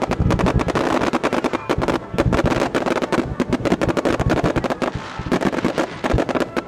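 A fireworks barrage: many shells launched and bursting in quick succession, a dense, unbroken run of bangs and crackles.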